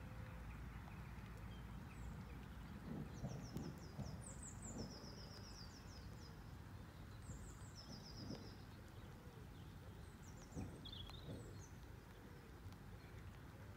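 Small songbirds calling faintly in short runs of quick, high notes, repeated several times, over a low steady rumble.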